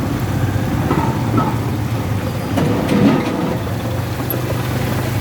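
Motor vehicle engine running steadily with a low hum, with street noise that gets briefly louder about three seconds in.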